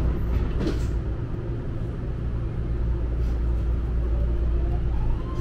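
Cabin noise of a legacy-fleet BART train car in motion: a steady low rumble with a few faint clicks, and a whine that rises in pitch near the end and then holds steady.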